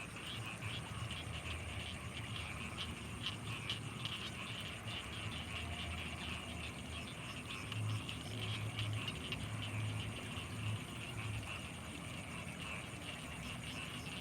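Night chorus of frogs and insects: a dense, fast-pulsing high chatter with a thin steady high whine above it, and low throbbing croaks underneath that grow stronger a little past the middle.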